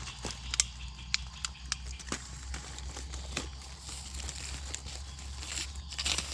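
Dry leaf litter and twigs crackling and rustling as they are disturbed while moving through forest undergrowth, with irregular sharp snaps scattered throughout over a steady low hum.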